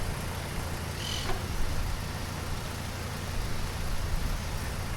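Steady low rumble of a bicycle ride heard on the microphone: wind and rolling noise, with a brief high squeak about a second in.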